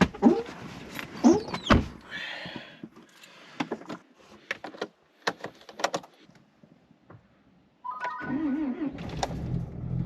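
Clicks, clunks and rattles like doors, latches and keys being handled, with a few short whining glides in the first two seconds; about eight seconds in, a vehicle engine starts and runs with a steady hum.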